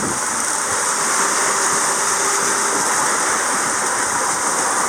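Steady rushing of sea water along a sailboat's hull as it sails under way.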